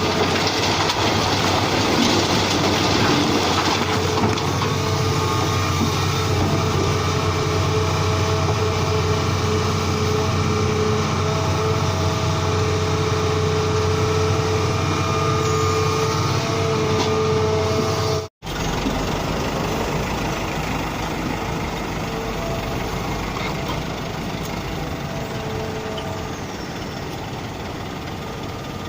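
Heavy truck engine running steadily, with a few held whining tones over the drone. The sound cuts out for a moment about 18 seconds in, then returns as a deeper, heavier engine rumble that gradually gets a little quieter.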